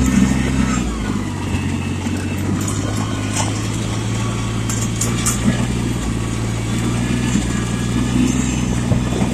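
Yanmar compact tractor's diesel engine running under way, its note dropping about a second in and then holding steady, with a few scattered clicks and rattles.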